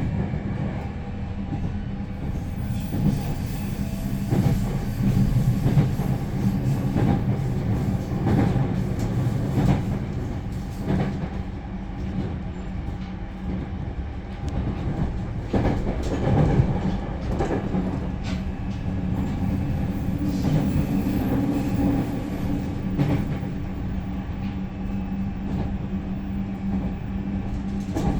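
Cabin running noise of a JR Central 315 series electric train heard from inside the car: a steady low hum with a constant tone, broken by scattered clicks and knocks from the wheels on the track. A second steady tone joins about two-thirds of the way through.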